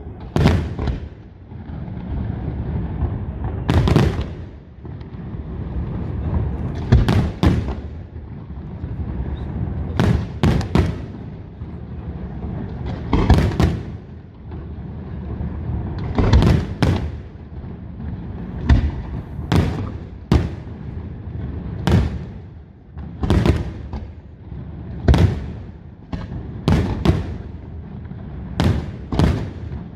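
Aerial fireworks shells bursting in a display, about twenty sharp bangs at irregular intervals, some in quick pairs, over a continuous rumble of echoing detonations.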